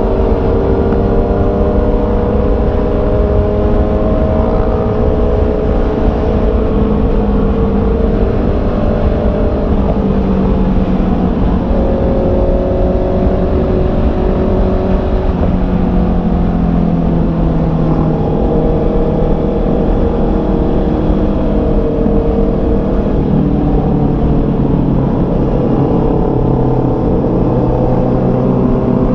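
Honda CB650R's 649 cc inline-four engine under way, its pitch rising and falling as the revs change, over a steady low wind rumble on the helmet microphone.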